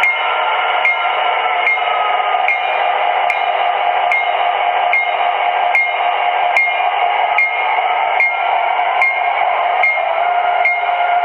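Sound system of an O-scale model diesel locomotive playing diesel engine running sounds through its small speaker. Crisp clicks repeat about every 0.8 s, like rail-joint clatter.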